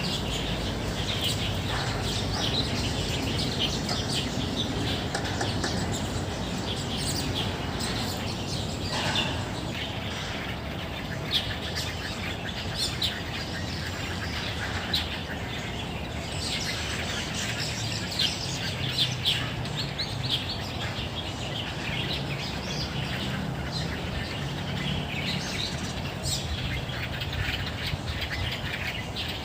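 Many small birds chirping and calling at once in the trees, a busy overlapping chorus with a few louder calls in the middle, over a steady low background rumble.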